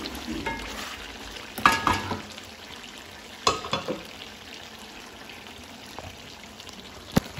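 Chicken curry frying gently in an aluminium kadai over a gas flame, a steady low sizzle. Two short metallic clatters from the pan come about two and three and a half seconds in, and a single sharp click near the end.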